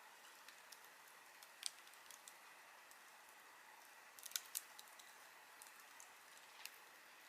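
Campfire burning: a faint, steady hiss with scattered sharp crackles and pops from the burning wood, a few about a second and a half in and a quick cluster of them past the middle.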